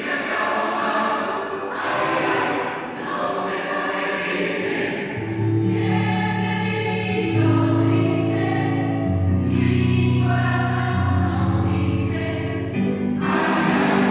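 Choir singing in parts; about five seconds in, the voices settle into long held chords with strong low notes, and the sound grows louder.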